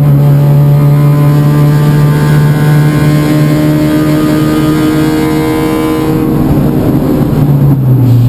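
Toyota Yaris Cup race car's four-cylinder engine heard from inside the cockpit, running hard at high revs on a steady note. About six seconds in the pitch falls, then steps down again near the end as the revs drop.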